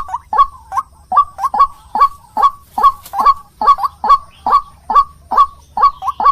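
White-breasted waterhen (ruak-ruak) calling: a loud, steady run of short, harsh notes about three a second, some coming in quick pairs.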